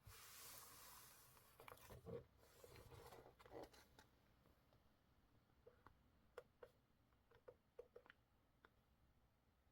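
Faint desk-crafting sounds of paper being handled: a soft rustle of paper at the start, then scattered light taps and clicks that thin out toward the end.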